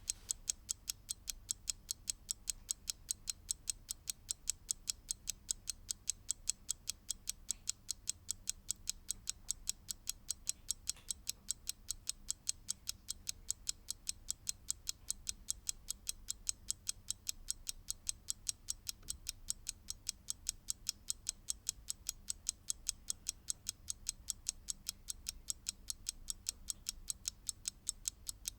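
Mechanical clock ticking at a fast, even rate, several sharp ticks a second, with no change in the beat.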